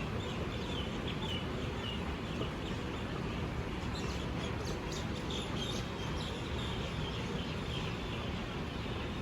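Several small birds chirping, short high notes with a quick run of rapid calls about four to six seconds in, over a steady low background rumble.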